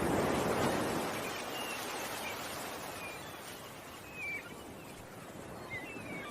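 Ocean waves washing in, swelling near the start and then drawing back, with birds giving short chirps several times over the surf.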